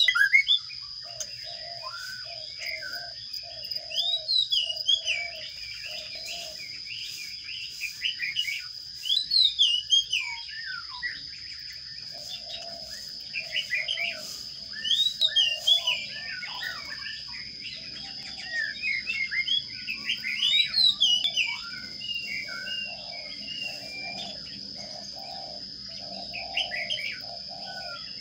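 Sparrows chirping in repeated bursts of quick, high chirps, over a steady high-pitched whine. A lower pulsing call repeats a few times a second for the first few seconds and again through much of the second half.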